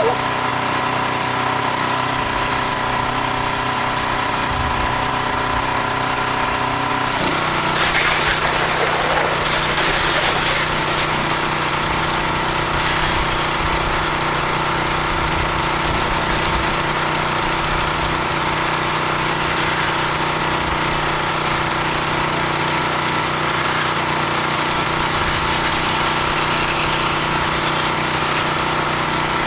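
Small-engine pressure washer running steadily, with the hiss of the water spray as siding is rinsed. About seven seconds in the engine note changes and the spray hiss grows louder for a few seconds.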